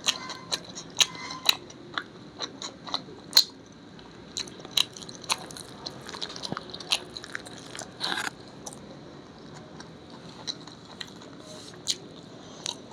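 A person biting and chewing crunchy food close to the microphone, with sharp crunches coming thick and fast for the first eight seconds or so, then only now and then. A faint steady high whine runs underneath.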